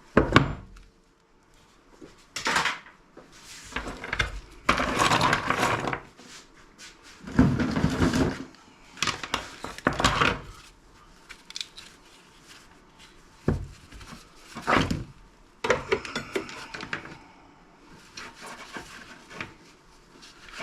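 Hands working on a teardown of scrap electronics: parts and tools being handled, set down and tossed aside. A sharp knock comes right at the start, then a series of irregular knocks and longer clattering, scraping rattles, with most activity in the first half.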